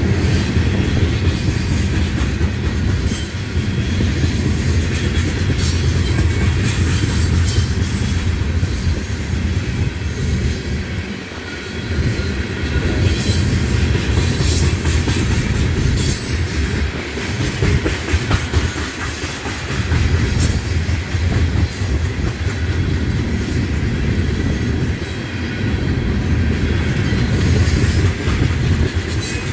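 Oil tank cars of a freight train rolling past, their steel wheels giving a steady low rumble with repeated clacking.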